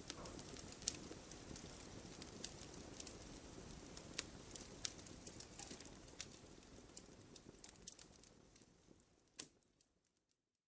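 Wood fire crackling: irregular sharp pops and snaps over a low steady rumble of burning, fading out over the last few seconds.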